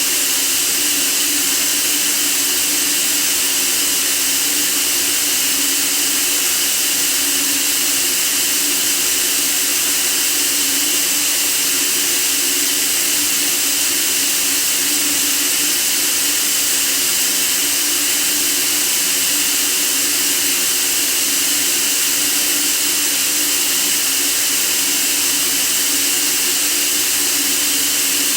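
Steady white noise: an even, unbroken hiss, brightest in the treble, that does not change.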